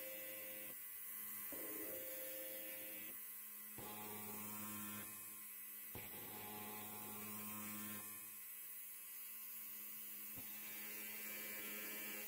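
Electric hair clipper running with a steady buzz, its tone shifting slightly every second or two.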